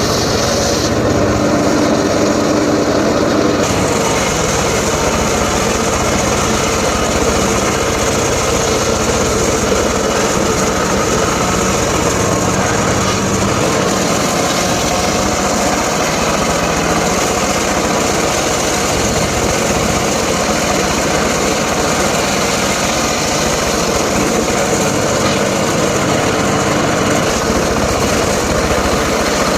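A small engine running steadily at high speed, loud and unbroken, with no pauses or changes in pitch.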